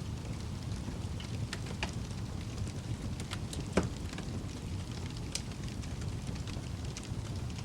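Wood fire in a fireplace burning with a steady low rumble and scattered crackles and pops, the loudest pop a little before the middle.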